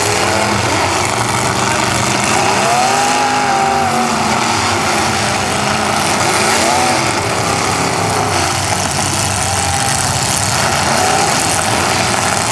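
Demolition derby cars' engines running and revving over a loud, steady din, their pitch rising and falling a few times.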